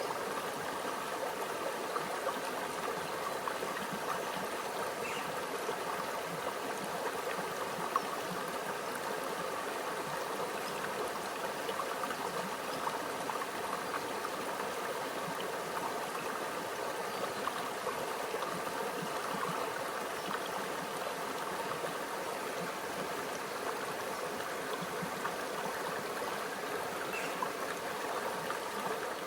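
Quiet stream flowing steadily: a continuous, even rush of water with a few brief ticks, one sharper about eight seconds in.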